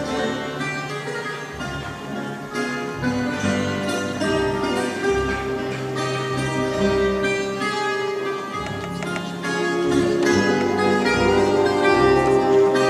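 Fado guitars, the Portuguese guitar among them, plucking a melody over an orchestra's long held string notes, with no singing; the music grows louder about ten seconds in.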